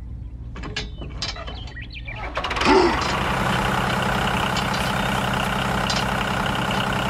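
Small metal clicks and taps as a bolt is fitted through a toy tractor's trailer hitch. About two and a half seconds in, a tractor engine sound starts and runs steadily as the tractor pulls the trailer away.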